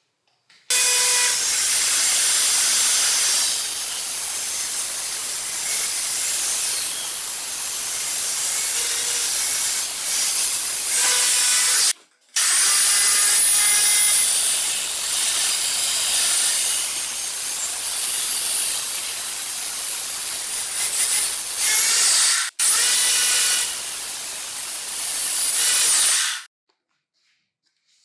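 Battery-converted angle grinder with an 895 DC motor running under load, its disc cutting with a loud hissing grind. It comes in three long stretches separated by abrupt cuts.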